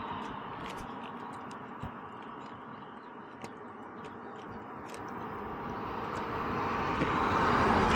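Wind and road noise while riding a CFMoto 300NK motorcycle, a steady rushing hiss with a few faint ticks, growing louder toward the end.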